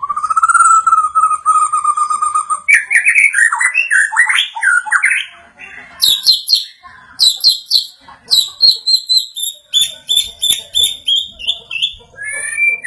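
White-rumped shama song: one long held whistle, then quick varied warbling phrases, then fast runs of repeated high notes.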